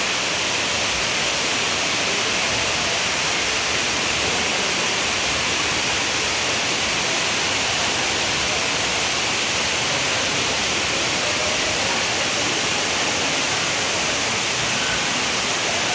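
Waterfall pouring, a steady hiss of falling water.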